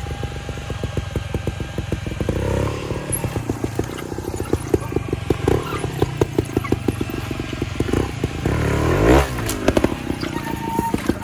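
Trials motorcycle engine running at low revs with many short throttle blips, and one quick, louder rev about nine seconds in.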